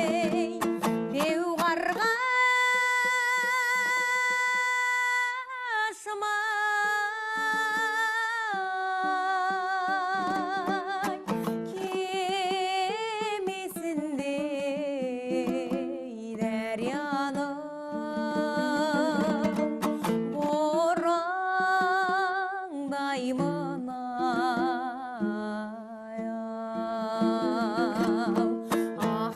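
A woman singing a slow song in long held notes with vibrato, over a plucked string accompaniment.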